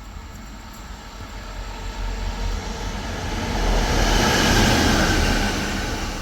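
A train passing, growing louder to a peak about four to five seconds in, then starting to fade.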